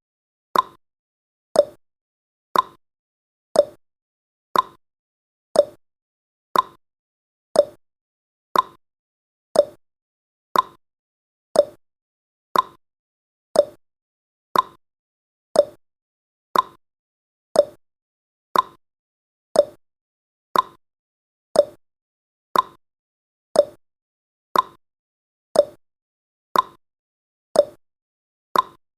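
Countdown timer's clock-tick sound effect: short, sharp ticks once a second, marking off the seconds.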